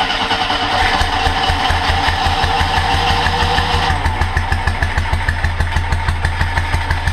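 Monster trike's carbureted engine running with a steady, even low pulsing beat, flooding because the rebuilt carburetor's float is set too high.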